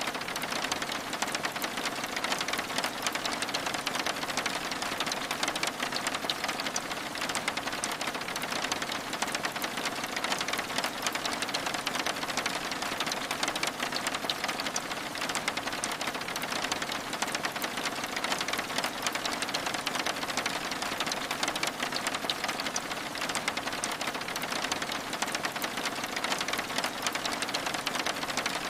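Steady rain on window glass: an unbroken, even patter of many small drops.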